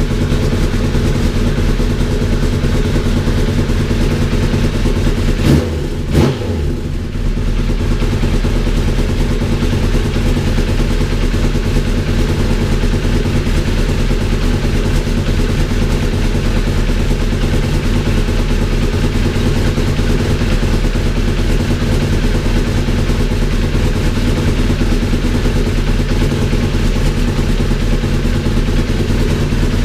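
Honda CBR1000RR's inline-four engine running steadily, freshly rebuilt after a gearbox repair, with a brief break in the sound about six seconds in. The exhaust has a small blow at the rear section.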